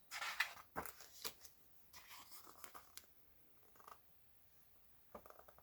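Faint rustling of a picture book's paper pages being handled and turned, with a few light clicks.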